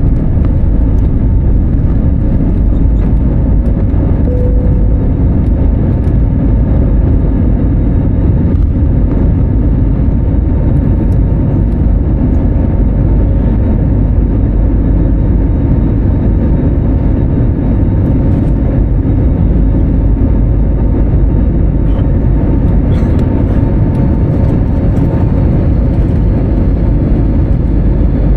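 Airbus A320neo cabin noise: a loud, steady rumble of engines and airflow with a faint steady hum riding on it.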